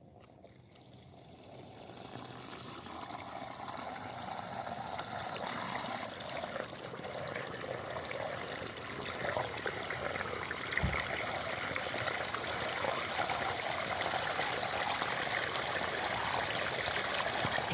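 Stream water running and trickling, growing louder over the first few seconds and then steady. A brief low thump about eleven seconds in.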